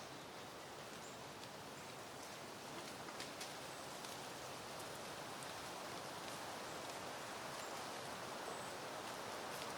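Breeze rustling through peony foliage: a soft, steady hiss of leaves that swells slowly. Scattered faint ticks and a few brief high chirps sit on top of it.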